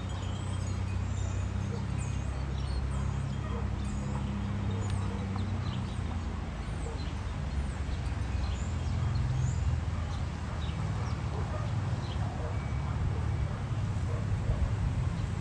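Birds chirping and twittering in many short, high, quick calls over a steady low rumble.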